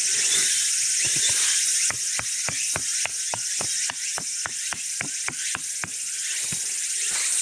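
A quick, even run of mechanical clicks, about four a second for some four seconds, like a ratchet being worked, over a steady high hiss.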